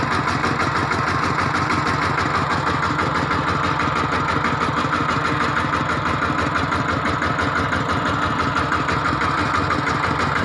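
Tractor engine running steadily, with an even pulsing chug.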